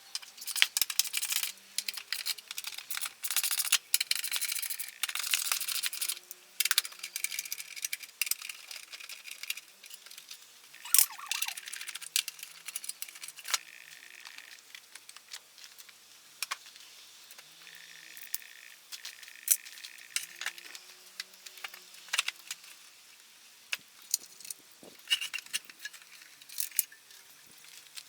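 Metal hand tools and parts of a Honda Super Cub clinking, rattling and knocking as the motorcycle is taken apart, with many sharp clicks, busiest in the first half.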